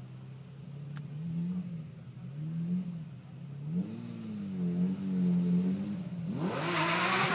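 Lamborghini Murcielago LP640's V12 idling at the start line and blipped in about four short revs, then launched hard about six seconds in, its revs climbing steeply and getting much louder.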